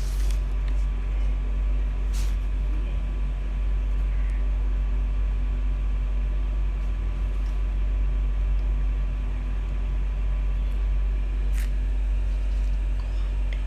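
A steady low hum with a faint fixed tone over it, unbroken throughout, and a few faint clicks, one near the start, one about two seconds in and one near the end.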